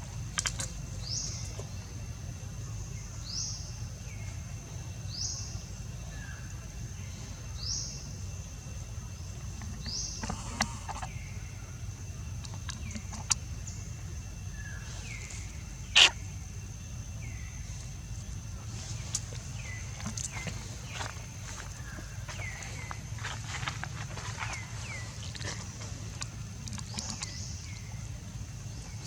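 Short, high, rising chirps repeat about every two seconds over a steady high whine and a low background rumble. A sharp click comes about sixteen seconds in, then a denser run of short chirps near the end.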